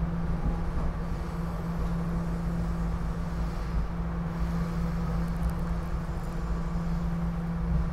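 Running noise heard inside a SEPTA Regional Rail passenger car as the train moves: a steady rumble with a constant low hum.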